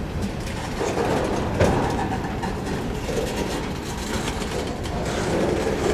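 Freight cars of a CSX mixed freight train rolling past on the rails, with a steady rumble and wheels clicking over the rail joints. A sharp clank comes about a second and a half in.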